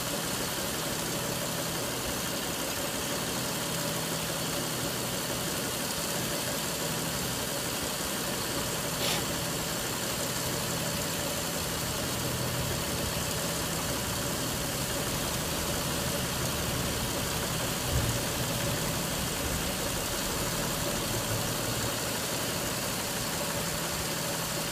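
Steady hum of a car engine idling, with a small click and a light knock partway through.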